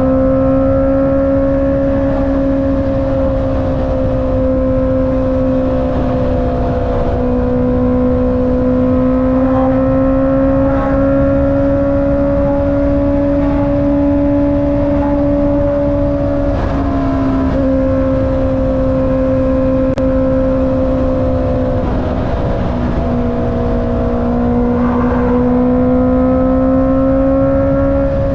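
Honda CB650R's inline-four engine running through an Akrapovic exhaust while the bike cruises at a steady pace. The engine note holds steady and creeps slowly higher, dipping briefly three times, with a low rush of noise underneath.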